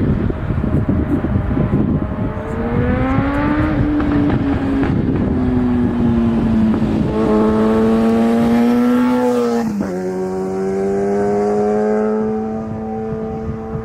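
Aircraft engine noise: a rushing roar, then a pitched engine tone with a rich overtone series that rises and falls in pitch, drops suddenly about ten seconds in, and then climbs slowly again.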